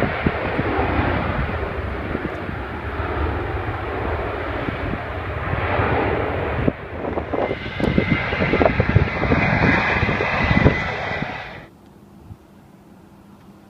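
Jet airliner's engines running loud as the aircraft passes, a dense rush with a low rumble; a steady high whine joins about eight seconds in. The sound cuts off abruptly about two seconds before the end, leaving only faint background.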